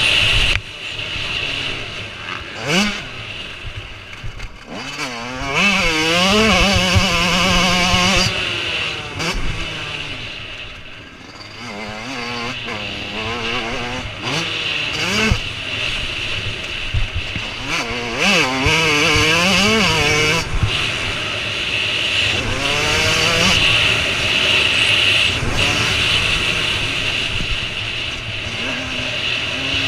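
Motocross bike engines revving hard, pitch repeatedly climbing and dropping as riders work the throttle and shift, with bikes passing close and fading away. The loudest passes come twice, one early and one past the middle.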